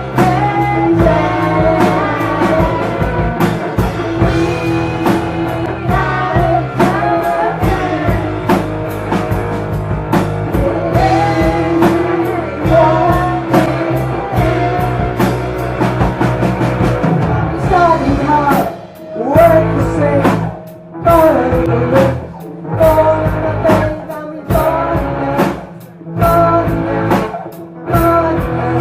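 Live rock band playing a song with a singer. About two-thirds of the way in, the band switches to short stop-start bursts with brief drops between them, roughly every two seconds.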